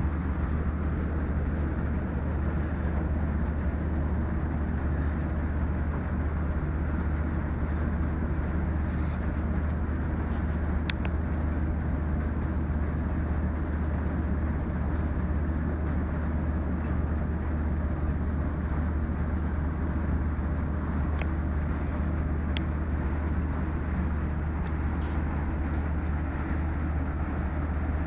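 Steady rain noise with a constant low rumble underneath and a few faint ticks.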